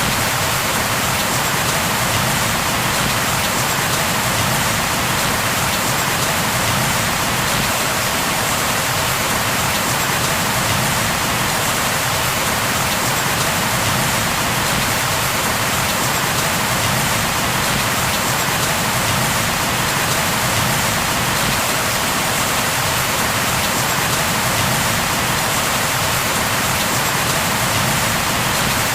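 Steady, even rain falling on a surface, a constant hiss with no breaks or thunder.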